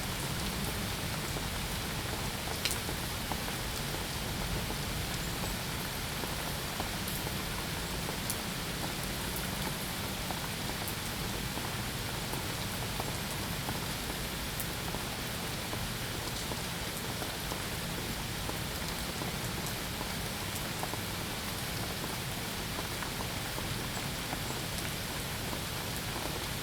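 Steady rain falling: an even hiss with scattered sharp drop clicks, one a little louder about three seconds in.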